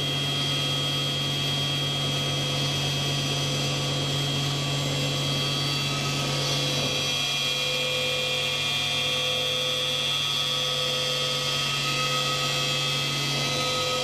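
Electric motor of a woodworking machine running steadily, a constant hum with a thin high whine over it, changing slightly in tone about halfway through.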